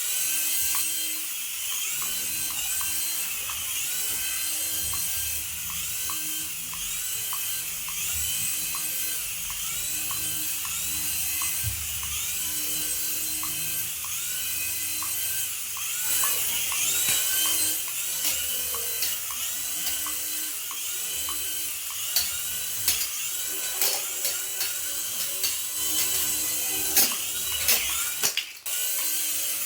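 A battery-powered toy's small electric motor whirring steadily, with a repeating rising-and-falling electronic chirp. Sharp plastic clicks come more often near the end.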